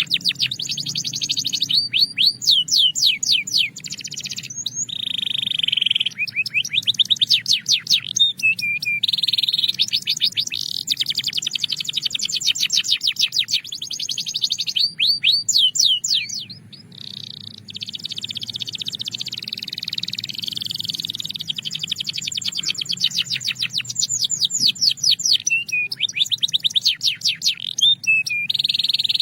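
Belgian canary singing a continuous song of fast trills and rolls: rapid runs of repeated high notes, some sweeping down, with a brief lull about halfway through.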